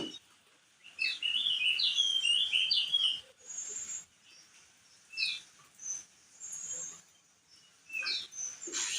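Crested white-eye (opior jambul) singing: a rapid phrase of chirping notes that jump up and down for about two seconds, starting about a second in, then a few short, scattered high chirps.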